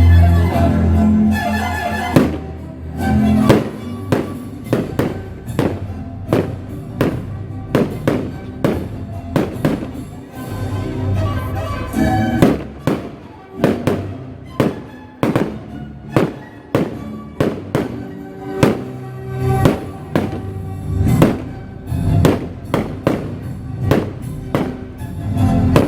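A fireworks display: shells bursting in a steady string of sharp bangs, often one or two a second, with music playing underneath.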